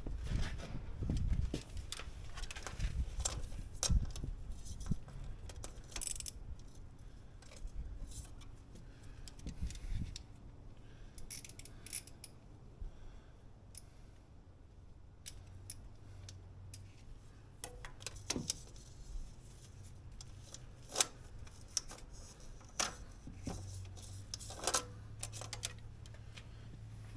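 Metal hand tools and parts clinking and knocking, with scattered scrapes, as work goes on for a tractor oil change. A faint low hum comes in about halfway through.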